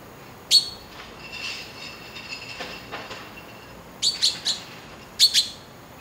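Bird calls: a sharp, loud call about half a second in, a quick run of three around four seconds, and two more near the end, with softer chirping in between.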